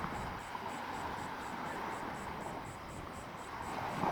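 An insect chirping steadily and high-pitched at about five chirps a second, over a soft, steady rushing background.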